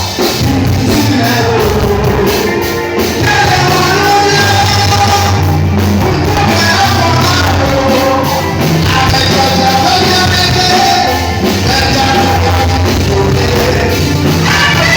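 Loud church worship music: voices singing a melody over a band with bass and a steady drum beat.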